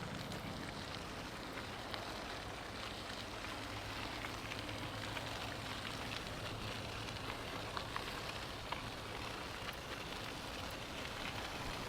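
Steady rolling noise of bicycles being ridden along a paved trail: tyres on the path with a faint hum and a few small ticks.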